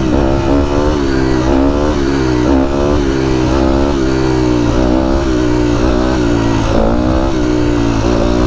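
A dirt bike engine running under load, its pitch rising and falling over and over as the throttle is worked, over a steady low rumble.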